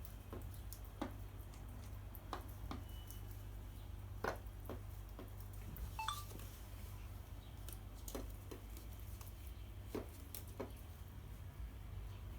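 Bird pecking at dry cat food in a bowl: light, irregular clicks and taps, with one brief chirp about six seconds in.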